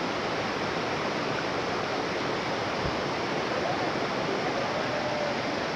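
Steady, even rush of water cascading down a waterfall.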